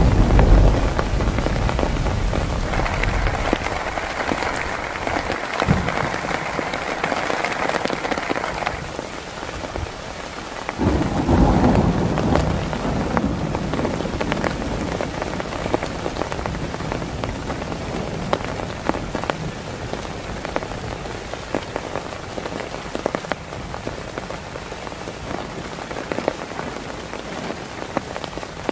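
Heavy rain falling on a surface in a dense spread of drop ticks, with a roll of thunder dying away at the start and another low rumble of thunder about eleven seconds in.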